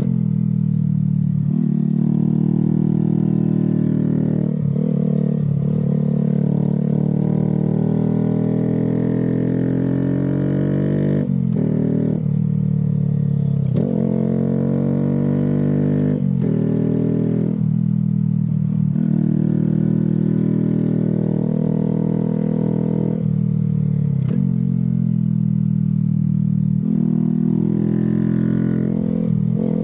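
Honda Grom 125's single-cylinder four-stroke engine under hard riding, its pitch climbing and dropping again and again with throttle and gear changes, with a few brief clicks along the way.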